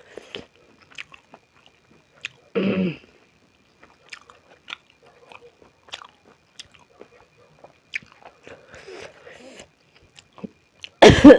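Close-up mouth sounds of chewing and biting beef momo dumplings: soft wet clicks and smacks throughout, a short voiced sound about two and a half seconds in, and a loud cough near the end.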